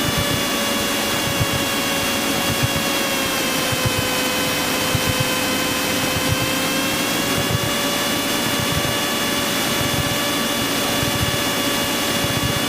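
Cessna 172's four-cylinder piston engine and propeller droning steadily, heard from inside the cabin on approach, with a whine on top that sags slightly in pitch a few seconds in and comes back up.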